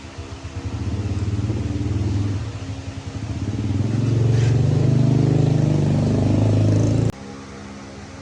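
Jeep engine running unevenly just after catching, then revved harder and louder from about halfway, before cutting off suddenly near the end.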